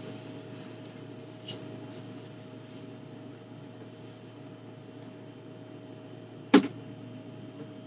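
Household items being handled while a fridge is cleared out: a light tap about a second and a half in and one sharp knock near the end, over a steady hum.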